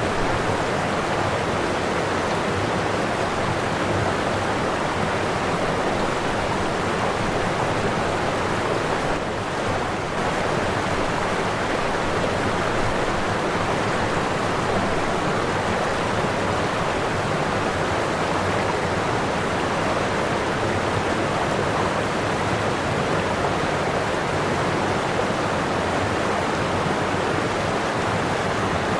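Waterfall: a steady rush of falling water with no break, easing slightly for a moment about nine seconds in.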